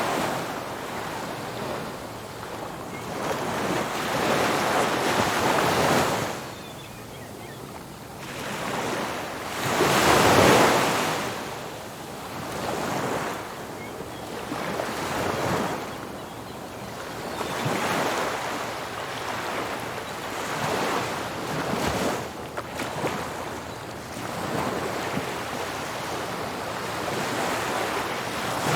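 Ocean waves breaking on a beach, the surf rising and falling in surges every few seconds, the biggest about ten seconds in. Some wind on the microphone.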